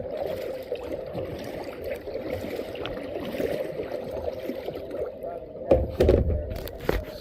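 Water swishing and splashing as a kayak is paddled, with a few loud knocks and low thumps about six seconds in, typical of the paddle striking the kayak's hull.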